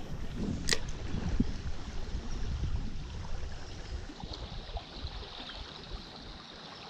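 Stream water running under a low, uneven rumble, with one sharp click a little under a second in.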